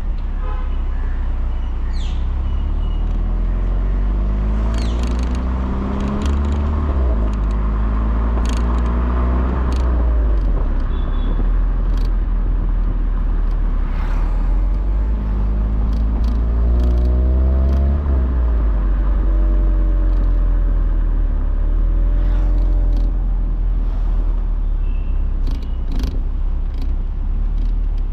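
Volkswagen Polo GTI's 1.8 TSI turbocharged four-cylinder engine heard through its exhaust while driving. The pitch climbs as it accelerates, drops at a gear change about seven seconds in, climbs again, then falls as it eases off after about eighteen seconds. A deep rumble runs underneath, with scattered sharp clicks.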